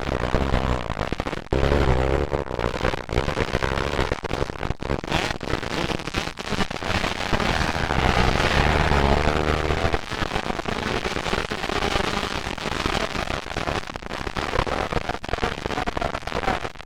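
125cc two-stroke motocross bikes racing, engines revving up and down with a rapid crackling, popping exhaust. It is loudest around the middle, as a bike revs hard close by.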